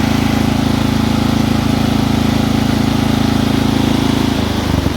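Small go-kart engine running at a steady speed. Near the end it drops to a lower, rougher note.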